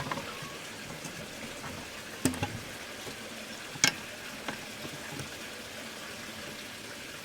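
A steady hiss with a few light clicks and taps from a toy steam engine being handled and dusted with a soft brush; the sharpest tap comes about four seconds in.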